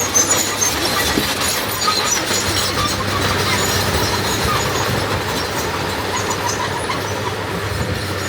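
D21 crawler bulldozer working: its diesel engine runs steadily under many short, high-pitched squeals and clinks from the steel tracks.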